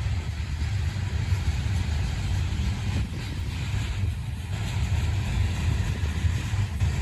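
CSX freight train's cars rolling past, a steady low rumble with a haze of rail noise over it.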